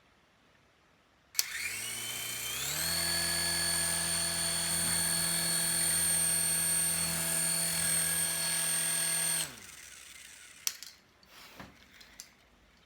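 Small electric motors of a toy coaxial RC helicopter spinning up its two rotors with a rising whine about a second in, running at a steady high whine, then winding down near the end. A few light clicks follow.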